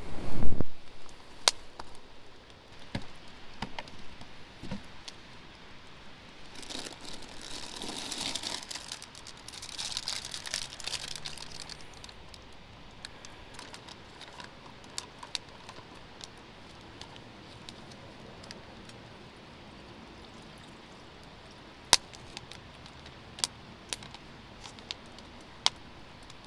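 A thump, then rustling and crinkling of something being handled for several seconds, followed by a few scattered sharp clicks.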